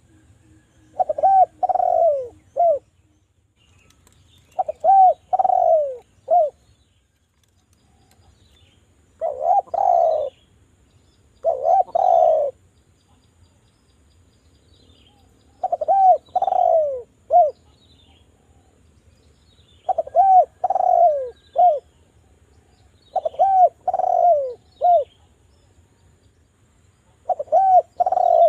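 A derkuku dove cooing in repeated phrases of three or four notes, the middle note drawn out and falling, with a phrase about every four seconds, eight in all. It is a sharp, clear call of the kind used as a lure to set other derkuku singing.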